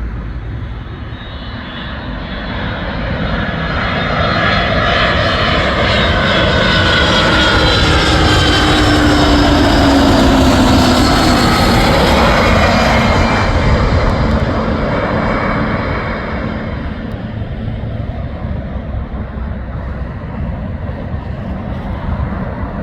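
An airplane passing close by. Its engine noise builds, peaks about halfway through, and fades, with the engine tones dropping in pitch as it goes past.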